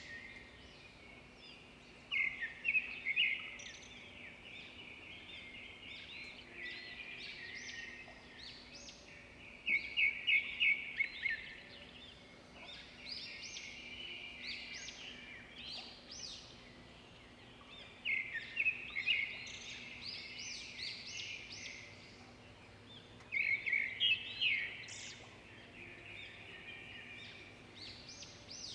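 Swiftlet calls: steady high-pitched twittering, broken four times by louder bursts of rapid chirping, each a second or two long.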